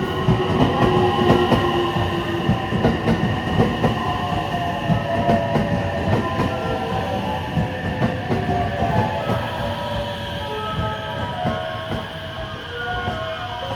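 Electric train running past close by, its wheels clattering rapidly over rail joints with a steady whine on top, slowly getting quieter.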